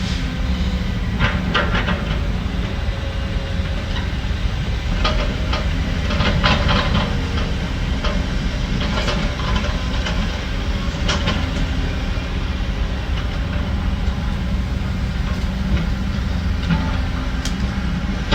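Heavy diesel construction machinery running steadily, with scattered metal clanks and rattles over the engine.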